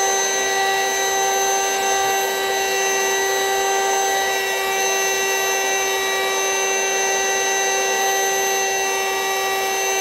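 Vacuum cleaner running steadily with a high motor whine, sucking the air out of a vacuum-seal storage bag of plushies.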